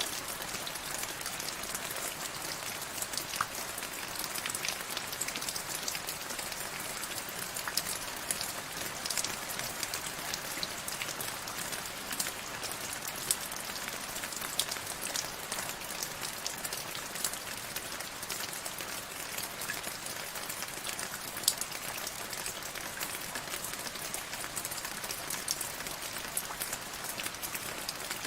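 Steady rain, with many individual drops ticking close by over a constant hiss.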